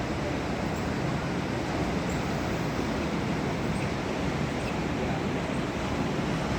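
Steady noise of ocean surf and wind, without breaks or any single sound standing out.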